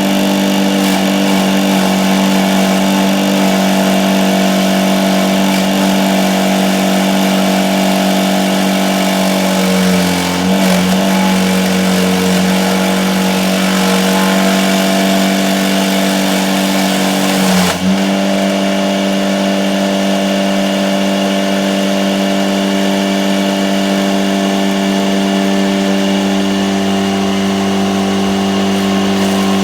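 Lawn mower engine running at a steady speed. Its pitch dips briefly about ten seconds in, and it falters for a moment near eighteen seconds.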